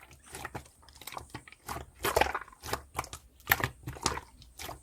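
Irregular run of soft clicks and crunchy crackles close to the microphone, a few each second.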